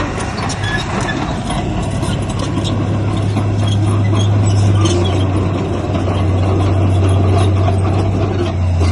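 Heavy diesel construction machinery running steadily, its engine giving a deep constant hum under a noisy mechanical din.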